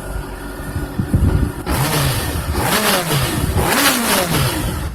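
2019 Honda CBR600RR's inline-four engine revved up hard about four times through its stock exhaust, each time with the pitch climbing and then falling away. A loud rushing intake noise rides over the revs for most of the stretch.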